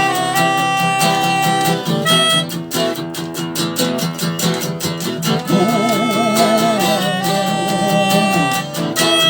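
Live rock band's instrumental break: guitar strumming a steady rhythm, with a wavering, vibrato-laden melody line held over it from about halfway through.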